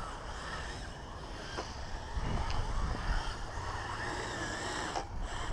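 Kyosho Blizzard RC snow groomer's brushed electric motor whining faintly as its tracks churn through snow, the pitch wavering with the throttle, over a low rumble of wind on the microphone.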